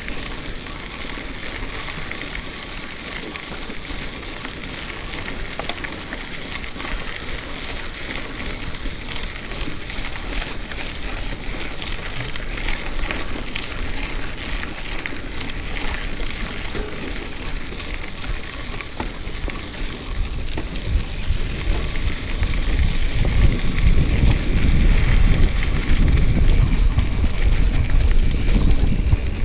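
Bicycle ridden over a rough dirt or gravel track, the tyres crackling and ticking over the surface. Wind rumble on the microphone builds in the second half.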